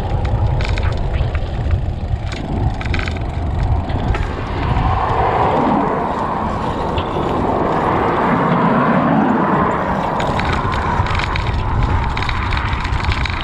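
Wind buffeting the microphone and tyre noise from a bicycle being ridden, a steady rumble that gives way to a brighter hiss about five seconds in.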